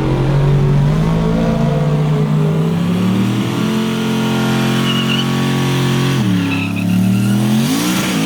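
Drag-racing pickup truck's engine revving hard, its pitch climbing, dropping sharply about six seconds in, then climbing again near the end.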